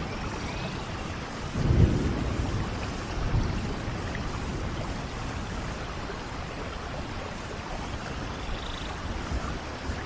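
Steady rain in a rainforest thunderstorm, with a low rumble of thunder swelling up a little under two seconds in and a weaker rumble about a second and a half later.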